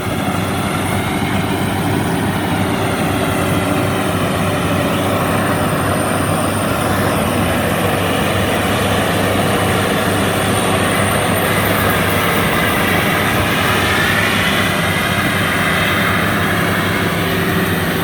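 Rice combine harvester's diesel engine running steadily under load as the machine churns through standing water in a flooded paddy. A higher whine rises and falls in pitch in the second half.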